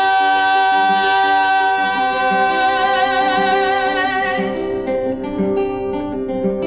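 A woman's voice holding the last sung note of a verse, which gains a vibrato and fades out about four and a half seconds in, over acoustic guitar that carries on alone.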